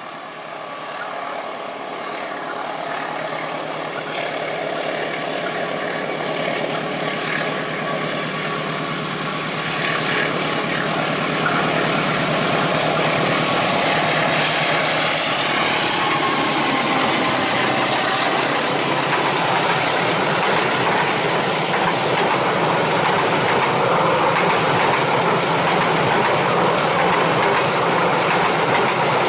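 Diesel locomotive hauling a long passenger train up a steep grade, its engine working hard and growing louder as it approaches. The clatter of the coaches' wheels on the rails follows as the train passes close by.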